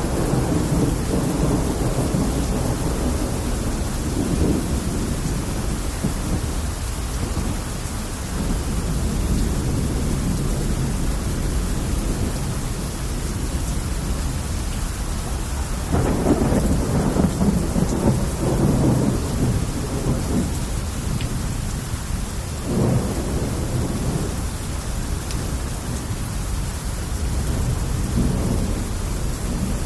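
Heavy rain falling steadily, with low rumbles of thunder rolling under it; the loudest rumble swells about halfway through, and a shorter one follows a few seconds later.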